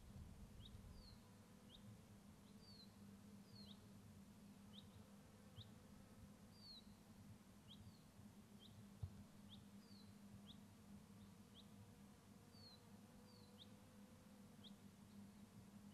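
Faint, repeated short high chirps from a small bird, one or two a second, over a low steady hum.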